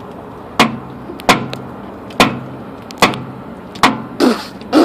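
A series of five sharp knocks, one roughly every second, over a faint steady hum, with a noisier scrape and a falling tone near the end.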